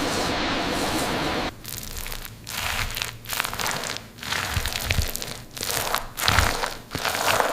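A steady rushing noise that cuts off about a second and a half in, followed by repeated crunching and crinkling, roughly one every second, some with a low thud.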